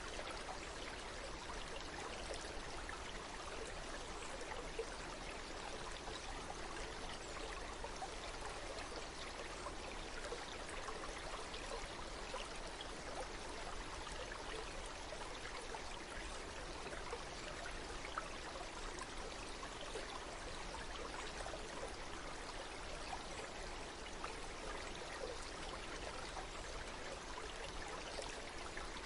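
Running water, a steady even rush with fine splashing throughout, as of a stream flowing over rocks.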